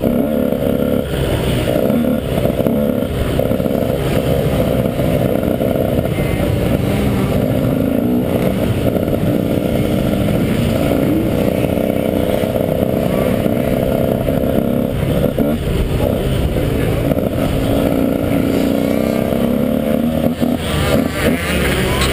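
Motocross bike engine running at low, uneven revs as the bike rides slowly over a dirt track, heard from a camera mounted on the bike itself.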